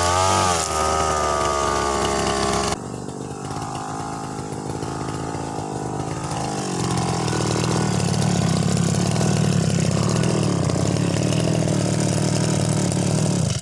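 UM328 brush cutter engine running with nylon line spinning, its pitch dipping briefly about half a second in. The sound changes abruptly near three seconds in, then builds back to a steady loud run from about seven seconds on.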